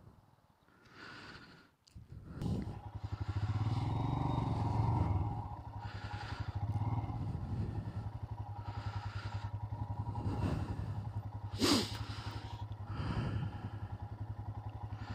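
Motorcycle engine idling steadily, with short patches of hiss over it and one sharp click about twelve seconds in.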